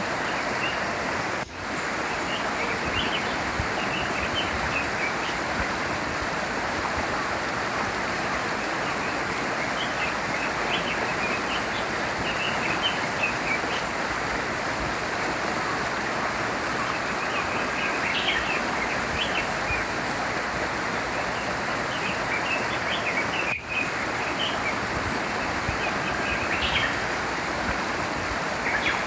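A small stream flowing steadily, with small birds chirping now and then over it. The sound drops out very briefly twice, a little after the start and near the end.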